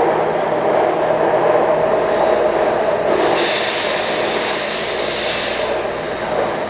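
Taipei Metro C301 train with retrofitted propulsion running on the line, a steady rumble with a high-pitched wheel squeal rising about two seconds in and fading out near the end.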